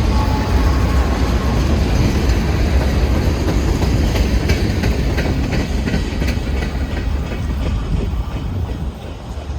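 Freight train cars rolling past with a steady low rumble, the wheels clicking over rail joints in the middle; it eases off a little near the end.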